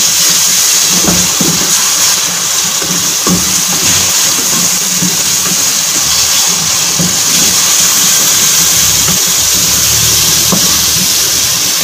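Sliced onions and ginger-garlic paste sizzling steadily in hot oil in a large metal pot while being stirred, with a spatula scraping and knocking against the pot now and then.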